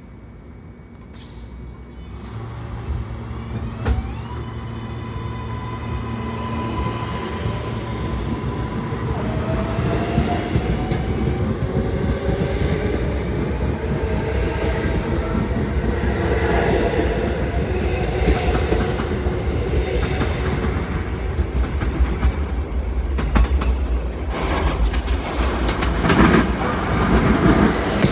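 New York City Subway L train pulling out and accelerating: the traction motors whine, rising in pitch, over a growing rumble. The wheels clatter more and more over the rails toward the end.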